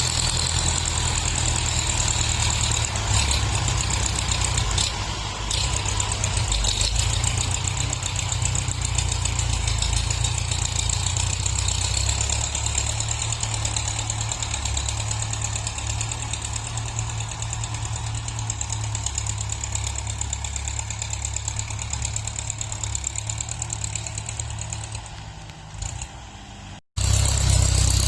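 Tractor engines running steadily under load while grading soil, a continuous low rumble. Near the end it fades, then cuts out for an instant and returns louder.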